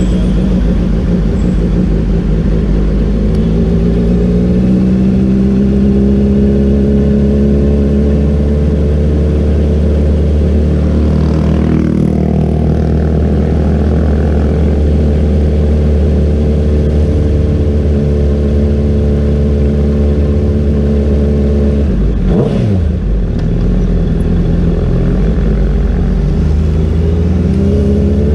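Honda CBR650R's inline-four engine running while the motorcycle is ridden, its note rising and falling gently with the throttle. The note drops briefly about 22 seconds in, then climbs near the end as the bike accelerates.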